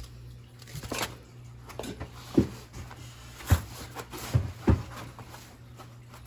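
Handling noise from unpacking a boxed 3D printer: about five dull knocks and thumps as parts and packaging are moved and set down.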